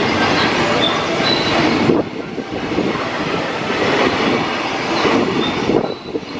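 Freight train wagons rolling past, wheels rumbling and clattering on the rails, with faint high wheel squeal. The sound drops abruptly about two seconds in and again near the end.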